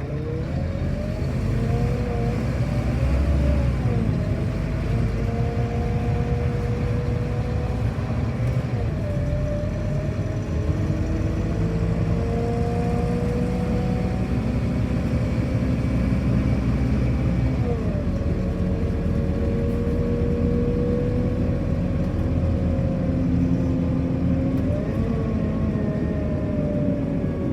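Scania K230UB city bus engine and driveline running under load, with a high whine that climbs in pitch and drops sharply about four times as the bus goes through its gears, over a steady low rumble.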